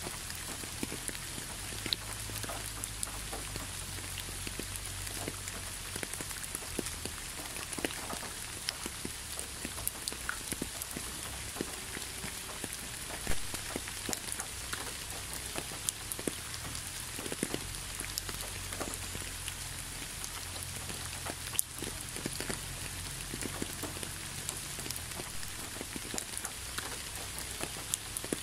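Gentle rain falling onto a leafy road: a steady hiss dotted with many scattered drip taps, one louder tap about thirteen seconds in, over a faint low rumble.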